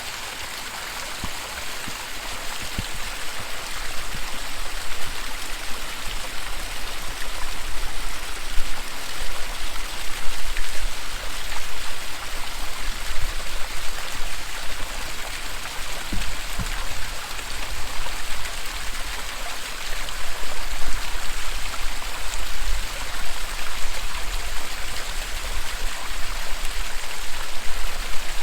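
Waterfall: steady rushing and splashing of falling water, growing a little louder over the first few seconds.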